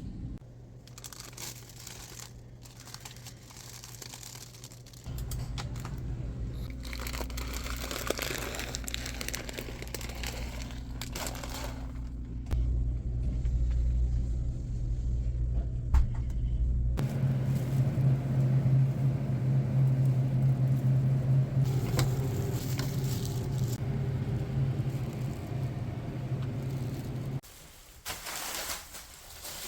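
A kitchen appliance's electric motor hums steadily, stepping up in speed and loudness a few times, with crackling and crunching on top, and cuts off abruptly near the end.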